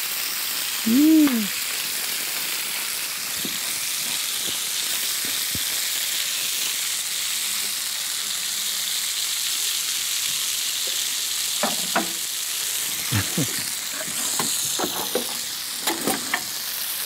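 Marinated chicken drumsticks frying in oil in a nonstick pan: a steady high sizzle. About a second in, a short pitched tone rises and falls, and a few light ticks come in the second half.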